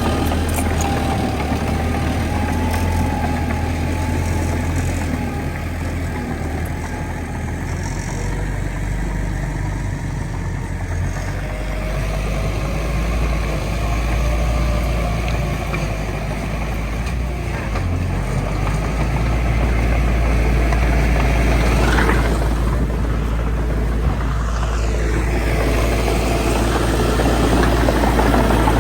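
Heavy diesel engine of earthmoving machinery running steadily with a deep low drone, growing somewhat louder in the second half.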